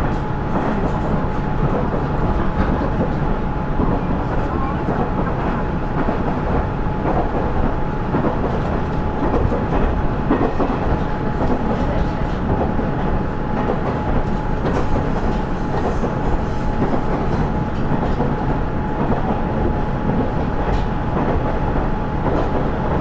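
Cabin running sound of a KiHa 110 series diesel railcar (KiHa 112) under way: steady rumble of the diesel engine and the wheels on the rails, with a thin steady whine held high above the rumble.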